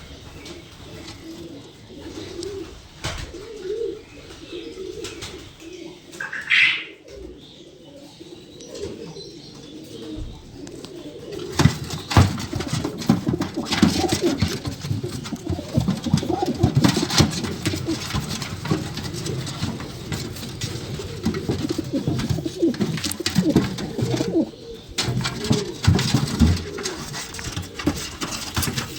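Pigeons cooing, with one short high squeak about seven seconds in. From about twelve seconds in, frequent sharp slaps and scuffles join the cooing as the pigeons fight.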